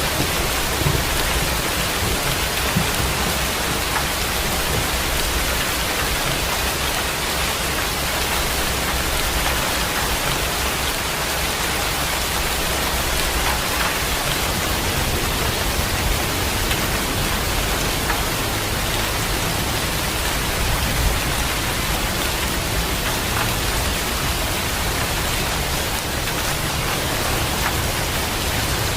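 Heavy rain falling steadily, a dense even hiss. At the very start the tail of a low thunder rumble fades out.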